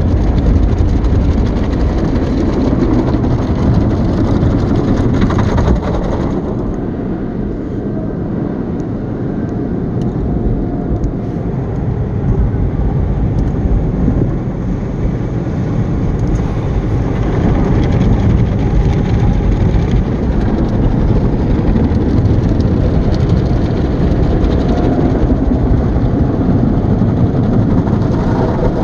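Automatic car wash running: a steady, loud rush and rumble of machinery and water. About six seconds in the sound loses some of its hiss.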